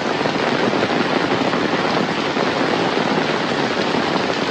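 Heavy rain pouring down, a dense, steady patter of drops hitting the ground and nearby surfaces.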